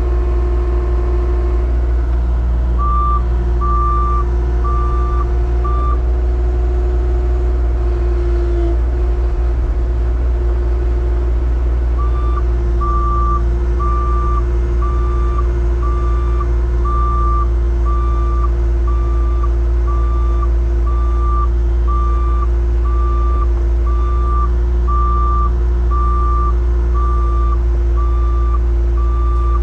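Backup alarm beeping about once a second, stopping for a few seconds then resuming, over a heavy vehicle engine running steadily.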